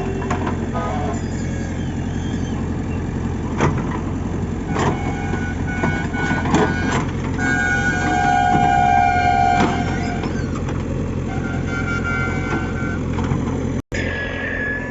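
Diesel engine of a JCB 3DX backhoe loader running steadily, with scattered knocks and clanks. Some held tones sound a little past the middle. The sound cuts out briefly near the end.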